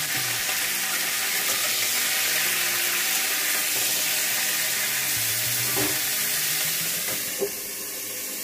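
Cauliflower florets sizzling as they fry in oil in a karahi, stirred with a metal spatula. Near the end a steel plate is set on the pan as a lid with a short clink, and the sizzle turns quieter.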